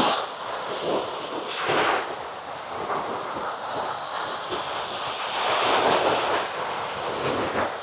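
Ocean surf breaking and washing up the sand at the water's edge, swelling and easing, with wind noise on the microphone.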